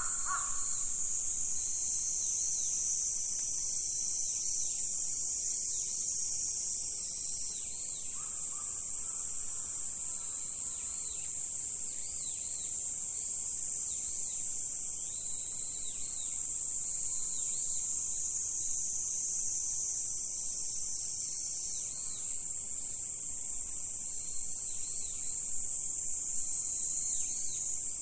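A steady, high-pitched insect chorus, with many short repeated chirps just beneath it and a single brief lower call at the very start, likely the tail of a crow's caw.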